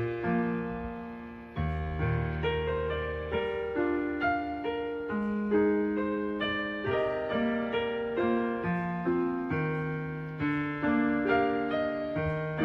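Background piano music, a gentle melody of struck notes that ring and fade.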